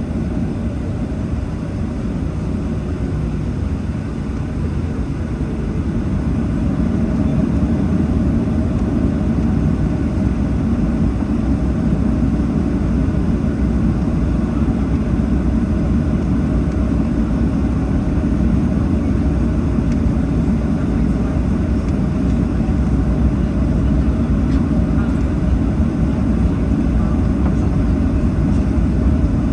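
Boeing 737-800's CFM56-7B jet engines running at taxi power, heard from inside the cabin as a steady low rumble that grows somewhat louder about six seconds in.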